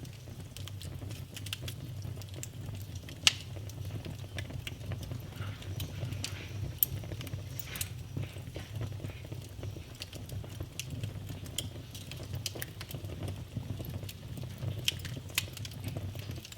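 Wood fire in a fireplace crackling, with scattered sharp pops, the loudest about three seconds in, over a low steady rumble.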